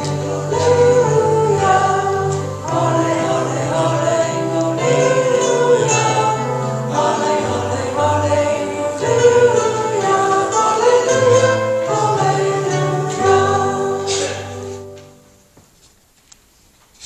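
Voices singing with instrumental accompaniment, the sung acclamation that comes between the readings and the Gospel in Lutheran worship. Sustained low notes run under the melody, and the music fades out about fifteen seconds in.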